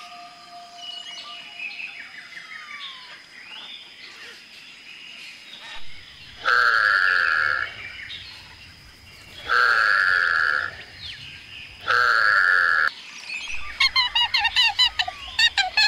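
Birds chirping faintly, then three loud, harsh calls about a second long each, spaced a few seconds apart. Near the end comes a fast run of repeated calls, about six a second.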